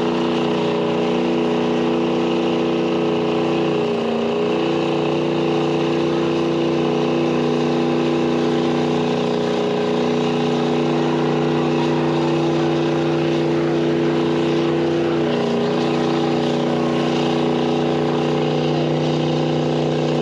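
Engine running steadily at idle, its pitch dipping briefly twice, about four seconds in and again near fifteen seconds.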